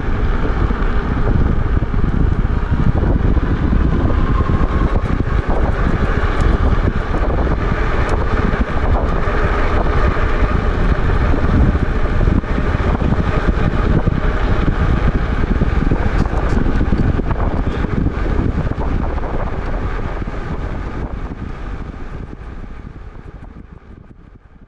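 Wind buffeting the microphone of a moving e-bike, with road noise underneath; it fades out over the last few seconds.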